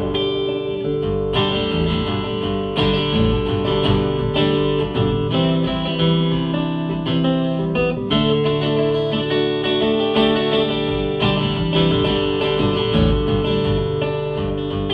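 Instrumental guitar break of a song with no singing: guitar chords struck every second or two, ringing out between strokes.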